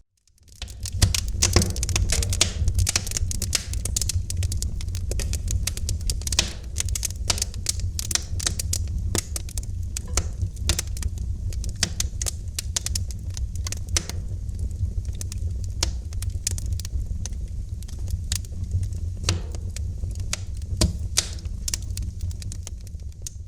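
Wood fire crackling in a fireplace: dense, irregular sharp pops and snaps over a steady low rumble of the flames. The sound fades up from a brief dip in the first second.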